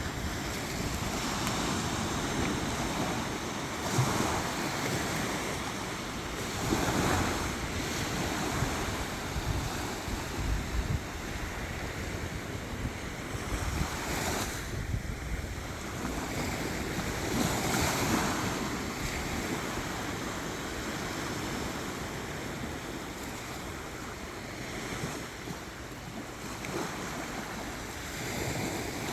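Sea waves washing onto the beach, swelling and falling back every few seconds, with wind buffeting the microphone.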